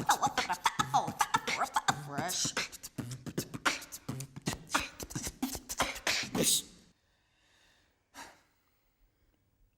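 Human beatboxing: fast mouth-made kick, snare and hi-hat clicks mixed with pitched vocal glides and rhythmic bass hums, cutting off suddenly about seven seconds in.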